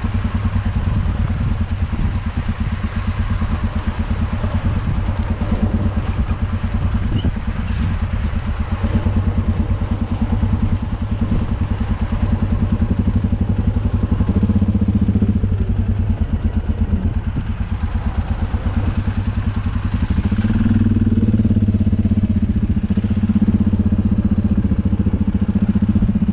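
Universal U650 tractor's four-cylinder diesel engine running steadily, a fast, even chugging. The engine note shifts slightly about halfway through and again about two-thirds of the way in.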